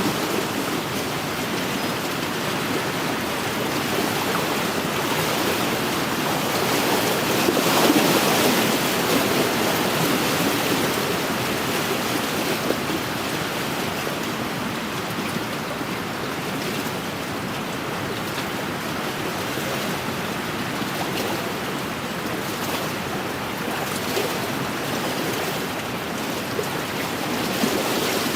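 Small wind-driven waves washing and lapping on a lakeshore, with wind blowing, a steady rushing wash that swells about eight seconds in.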